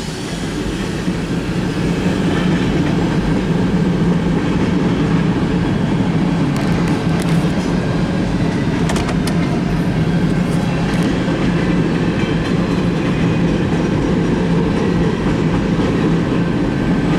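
Canadian National freight train rolling past: a steady rumble of wheels on rail with an even hum, and a few sharp clicks about halfway through.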